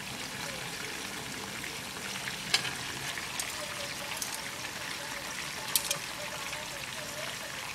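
Chicken pieces sizzling steadily in a frying pan on the stove, with two sharp clicks about two and a half and six seconds in.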